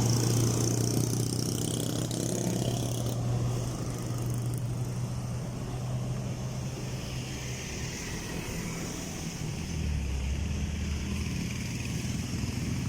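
Heavy vehicle engines running in road traffic: one steady engine hum fades away after about three seconds, and a lower engine note comes in about ten seconds in.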